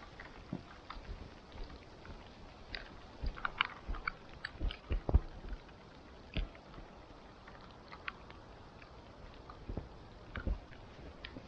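Wood campfire crackling, with irregular sharp pops and snaps over a low steady hiss and a few louder cracks.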